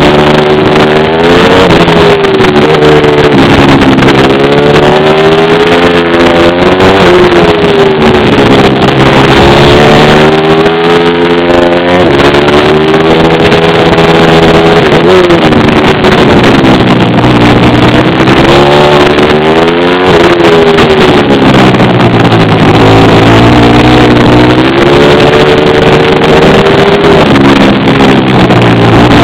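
Pit bike engine running loud and revving hard, its pitch climbing and dropping again and again every few seconds as the bike accelerates and backs off.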